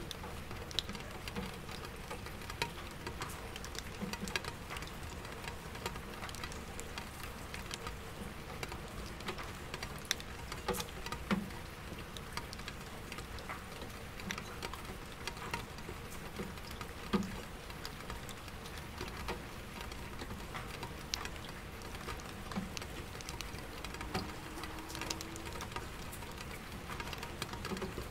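Steady rain pattering on window glass with heavier drops landing in an empty bucket, a few of them louder, over a low steady city hum.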